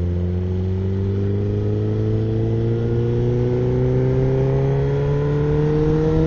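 Suzuki GSX-R1000's inline-four engine pulling steadily while riding, its pitch rising slowly and evenly as the bike gains speed in one gear.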